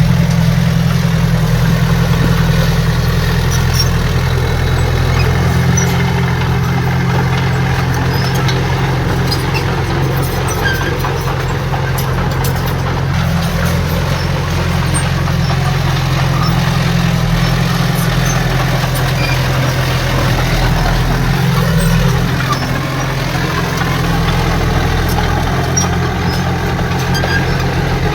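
Heavy diesel engine of earthmoving machinery running steadily, a deep low drone with small rises and dips in load.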